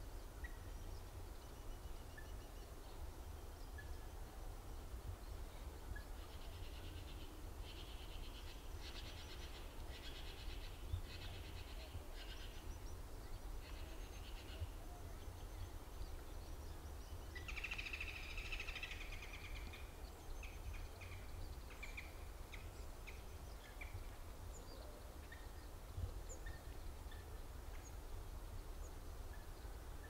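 Faint bird calls: bursts of rapid, harsh chattering through the middle, a louder rasping call a little past halfway, and scattered short chirps, over a steady low rumble.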